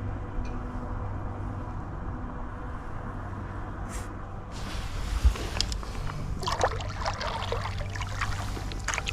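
Kayak paddle strokes: the blade dipping and water splashing and dribbling off it, starting about halfway through, over a steady low rumble.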